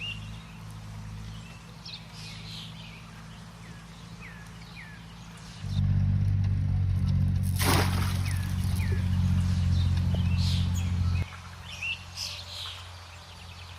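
Small birds calling with short, repeated, falling chirps. A loud, steady low hum cuts in about six seconds in and stops abruptly about five seconds later.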